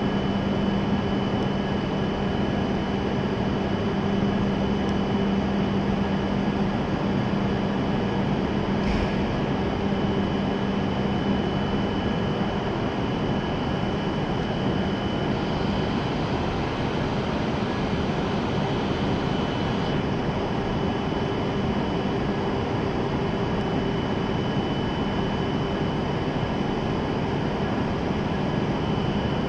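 Steady hum of a stationary E7 series Shinkansen train at the platform, its air-conditioning and onboard electrical equipment running, with a faint steady whine over the noise. A light click about nine seconds in.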